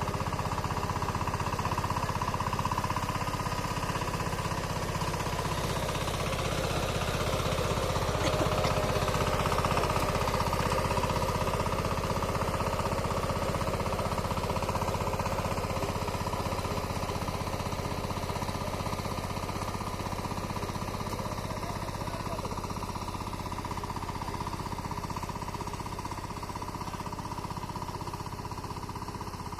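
Small tractor's engine running steadily with a rapid chugging pulse while it digs the field, getting a little quieter toward the end.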